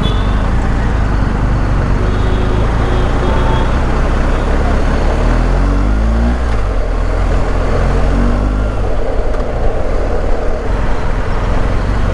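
BMW motorcycle engine under way in low gear, with steady rushing riding noise. The engine note climbs twice, from about five seconds in and again near eight seconds, dropping after each climb as the rider shifts up.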